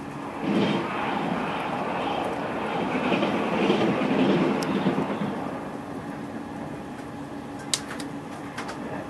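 Steady rumble of a moving train heard from inside the carriage, swelling into a louder rushing noise for about five seconds as an SNCB double-decker train passes close alongside on the next track. A few sharp clicks near the end.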